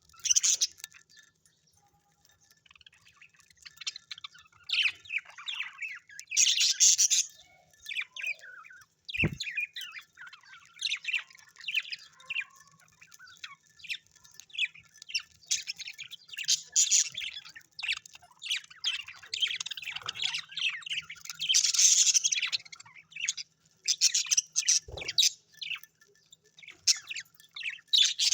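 Small birds chirping and chattering in a dense run of short, high calls, with louder bursts of squawking chatter twice.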